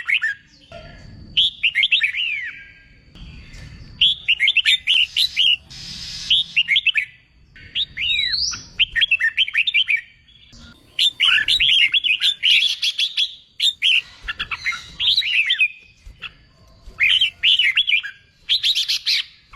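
Red-whiskered bulbul singing loud, quick phrases of rising and falling whistled notes. Each phrase lasts about a second, with short pauses between them: the competition-style song used to stir other bulbuls into singing.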